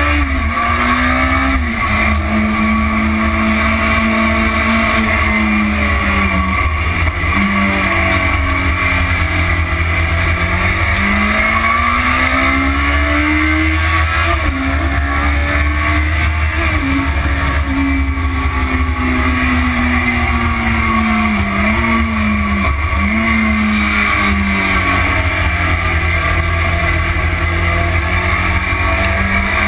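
Motorcycle engine pulling hard on track, its pitch climbing with short dips at each gear change and falling away under braking, again and again. Steady wind rumble on the tank-mounted camera runs underneath.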